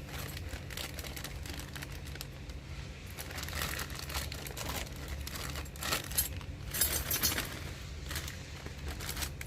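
Plastic packaging crinkling and rustling as it is handled and opened, with small clicks and knocks among it; it is busiest around the middle.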